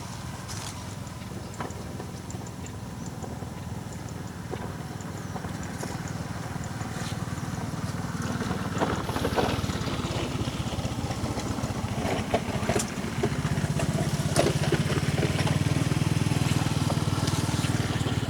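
An engine running with a low, steady throb that grows louder about two-thirds of the way through, with scattered clicks and knocks over it.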